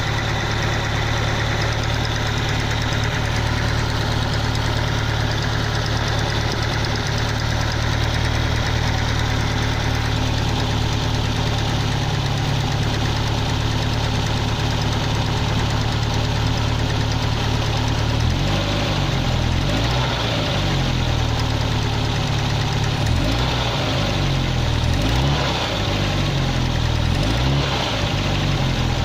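Car engine running after a cold start, idling steadily, then from about two-thirds in its speed rises and falls repeatedly. The owner hears an abnormal noise in it from the cylinder at the driver's-side end.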